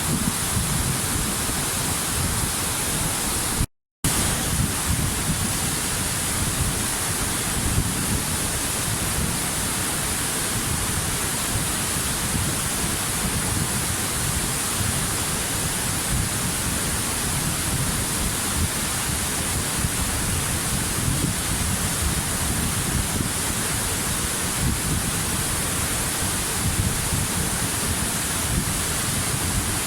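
Waterfall rushing steadily, a deep rumble under a bright hiss, cutting out completely for a split second about four seconds in.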